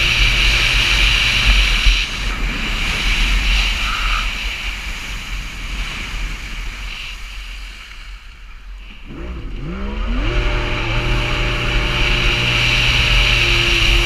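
A motor engine running steadily over a rushing hiss, falling off around the middle, then revving back up with a rising pitch and running steadily again.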